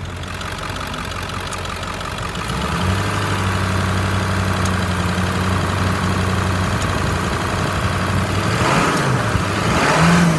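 2003 Ford F-550's 7.3-litre V8 turbodiesel running: idling, then held at slightly raised revs from about two and a half seconds in. Near the end the revs dip and climb again in a brief, louder rev.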